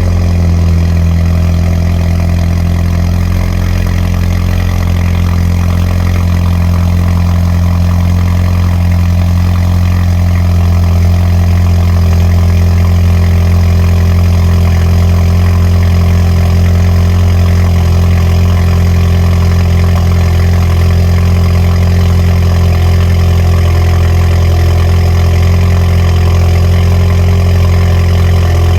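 Straight-piped, stage 1 tuned Alfa Romeo Stelvio Ti's turbocharged four-cylinder engine, with a catted downpipe, idling steadily just after a cold start. The exhaust gives a loud, deep drone.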